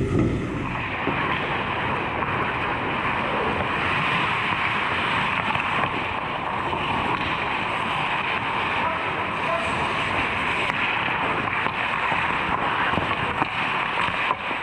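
Steady ice-rink noise during hockey play, with faint voices in it and a few light knocks.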